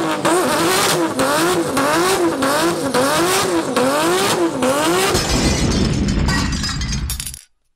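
Car engine revving up and down over and over, the pitch rising and falling about every two-thirds of a second. From about five seconds in a deeper rumble takes over, then it fades and stops shortly before the end.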